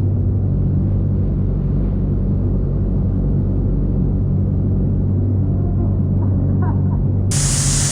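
Sport motorcycle engine idling with a steady low hum. Near the end a loud hiss cuts in suddenly.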